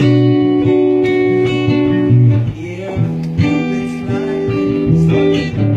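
Band music with no vocals: a guitar and a bass guitar playing held chords, the notes changing every second or two.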